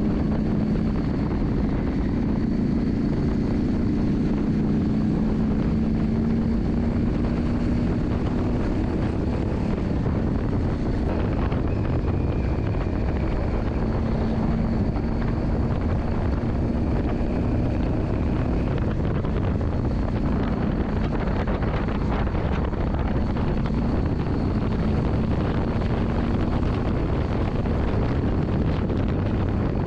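Yamaha Drag Star 400's air-cooled V-twin engine running steadily, its drone drifting slightly up and down in pitch, under a steady rushing noise.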